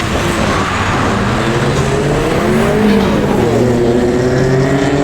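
A performance car's engine revving hard under acceleration, its pitch rising, dropping sharply about three and a half seconds in, then climbing again.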